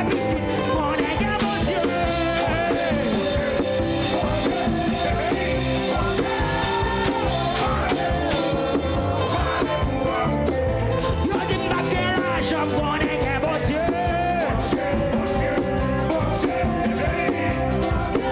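Worship band music with singing voices over the instruments.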